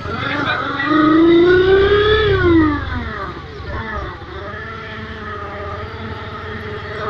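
Honda New Mega Pro motorcycle with a sound booster giving a race-bike engine note, revving: the pitch climbs for about a second and a half, drops sharply, then settles into a steady drone. The rev is the loudest part, about a second in.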